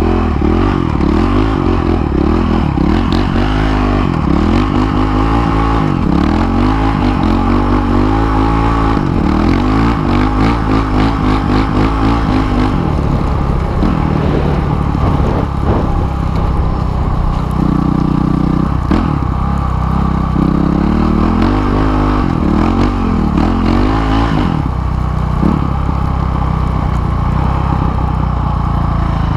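Dirt bike engine running hard on a snowy street, its pitch rising and dropping again and again as the throttle is worked. Through the middle it holds a steadier note before the rising and falling comes back.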